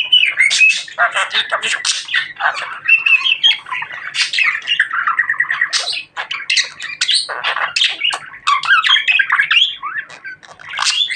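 Budgerigar chattering and warbling: a fast, continuous run of chirps, squawks and clicks with only brief pauses.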